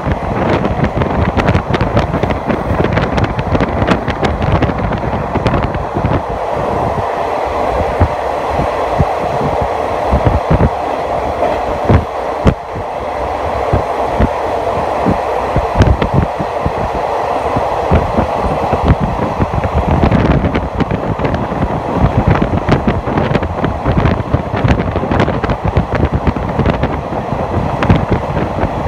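Passenger train running on the line, heard from inside a carriage through an open window: a steady rumble and clatter of the wheels on the track, with many sharp clicks and rattles throughout.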